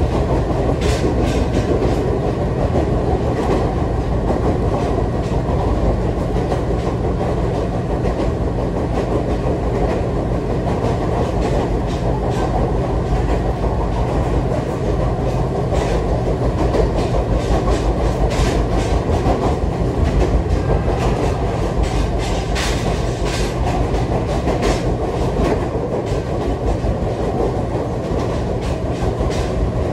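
Commuter electric train on the Nagareyama Line running steadily, heard from inside the passenger car as a continuous low rumble. Scattered sharp clicks and clacks from the wheels on the track sound at irregular intervals throughout.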